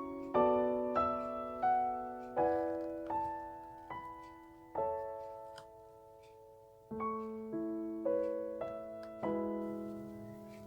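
Background music: a slow, gentle piano piece, single notes and chords struck one after another and left to fade, with a short pause about halfway through.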